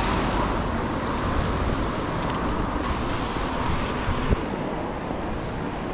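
Wind buffeting the microphone over the steady background noise of a city street, with one sharp knock about four seconds in.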